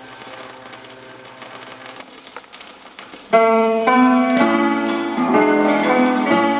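Instrumental gospel music: soft held tones, then a little over three seconds in a piano comes in loudly, playing chords and a stepwise melody.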